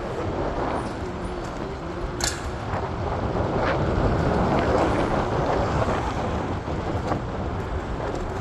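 City traffic rumble with wind buffeting the microphone, swelling a little about halfway through, with one sharp click a little over two seconds in.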